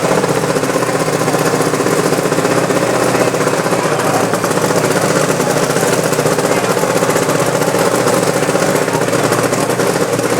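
Kawasaki hill-climb motorcycle engine running loud at steady revs, with a fast hammering pulse.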